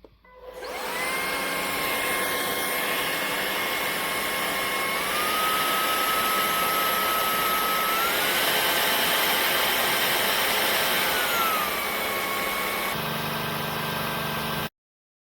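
Levoit cordless stick vacuum motor spinning up with a rising whine, then running steadily. Its pitch steps up twice and later drops back down, and it shuts off suddenly near the end.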